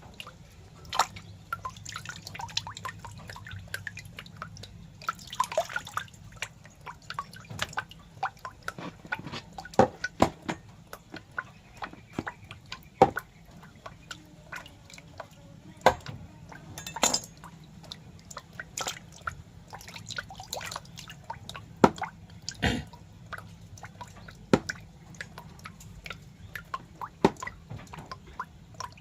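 Irregular wet clicks and small crackles, close to the microphone, some sharper than others, over a low steady hum.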